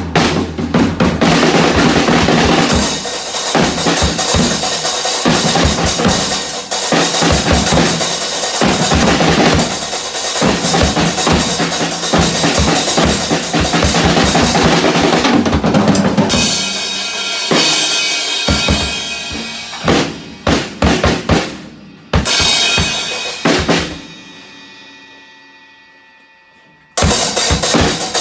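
A drum kit played hard, with busy bass drum and snare hits. After about 16 s the hits thin out. Around 24 s a cymbal is left ringing and fades for about three seconds, then the drumming starts again near the end.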